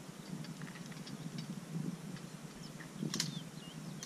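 Small birds chirping and singing in short high calls and little whistles, scattered throughout, over faint outdoor background noise; one sharp click about three seconds in.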